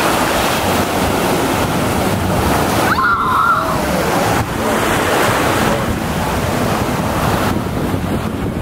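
Ocean surf breaking and washing ashore, with wind buffeting the microphone.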